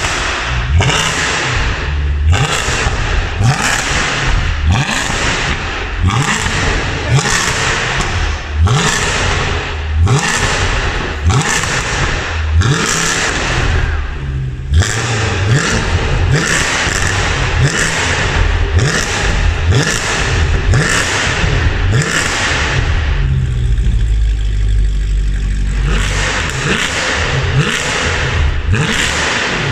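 Mercedes C63 AMG W204's 6.2-litre V8 being revved hard through catless downpipes, an X-pipe and the original rear silencers: repeated quick throttle blips about once a second, each a sharp rising rev that drops straight back. About three-quarters through it settles briefly to a steadier lower note, then the blips start again.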